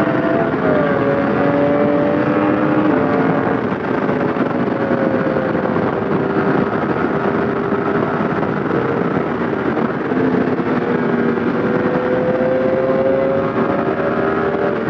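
Yamaha MT-10 crossplane inline-four with an SC Project exhaust running at a steady cruise, its pitch drifting slightly with small throttle changes, under heavy wind rush on a helmet-mounted microphone.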